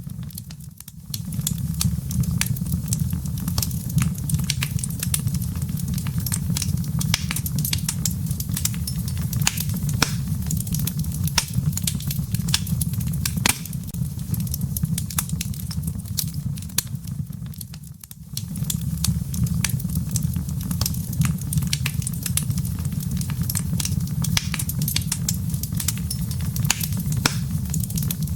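Wood fire burning in a fireplace: a steady low rumble of the flames with dense, irregular crackles and pops of burning firewood. The sound dips briefly about a second in and again around eighteen seconds in, then carries on.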